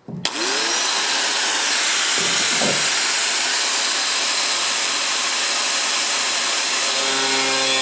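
An electric motor-driven tool or blower starts abruptly and spins up, then runs with a loud, steady rushing hiss. Near the end it is switched off and winds down with a falling hum.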